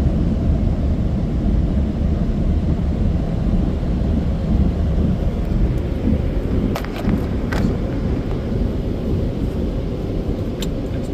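Car wash air dryer blowers running with a loud, steady low rumble. A few sharp taps come about two-thirds of the way in and again near the end.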